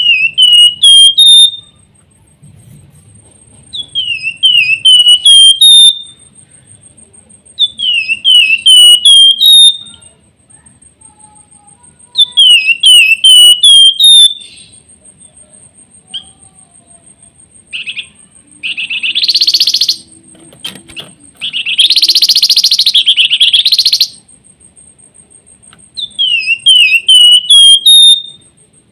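Flamboyan songbird (Javan wergan) singing: phrases of five or six short down-slurred whistles, each phrase stepping slightly up in pitch, repeated about every four seconds. About two-thirds of the way in come two longer, harsh buzzy chatters. A thin, steady high tone runs under it.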